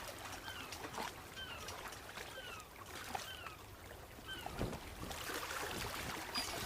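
Venetian canal ambience: water lapping and sloshing with soft knocks, under a run of short falling chirps, about one and a half a second, that stop about four and a half seconds in.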